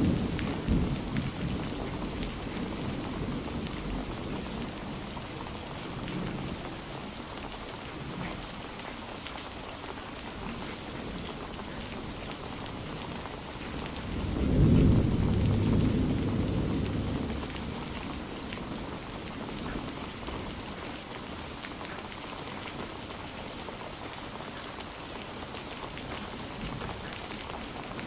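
Steady rain falling, with thunder rumbling: a roll fading out at the start, a faint one about six seconds in, and a louder low rumble about halfway through that dies away over about three seconds.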